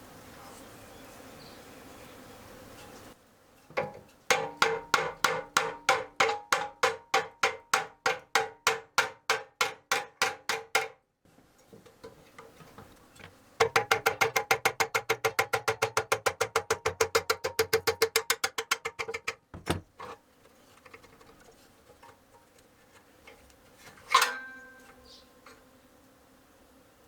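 A ratchet wrench being worked on the lawnmower engine: two runs of quick buzzing ratchet strokes, the first about four a second and the second faster, about seven a second. A single sharp knock follows near the end.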